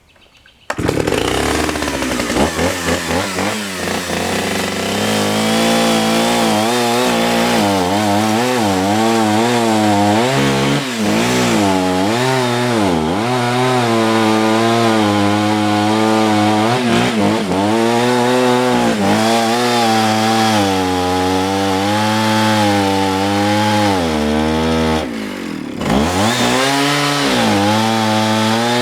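Gas chainsaw with a 16-inch bar catching and starting about a second in, then cutting into a big cherry log, its engine pitch rising and sagging as the chain bites into the wood. About 25 seconds in it drops briefly toward idle, then revs back up.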